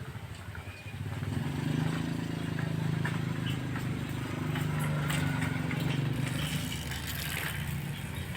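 A motor vehicle engine running close by, coming up about a second in and holding steady as a low hum, with a few faint short high chirps above it.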